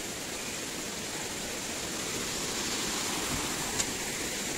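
Steady rushing outdoor noise with a faint, steady high whine above it, and a single short click near the end.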